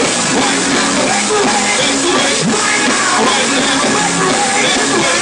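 Loud live gospel music from a church band, with voices singing and shouting over it.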